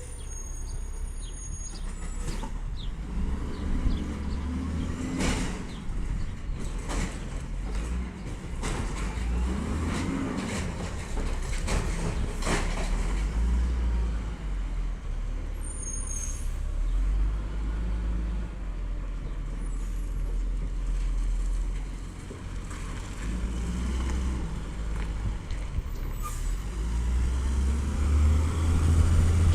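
Peterbilt 320 automated side-loader garbage truck's engine running and rising and falling in speed, with air-brake hisses, several sharp bangs and a few short high squeals along the way.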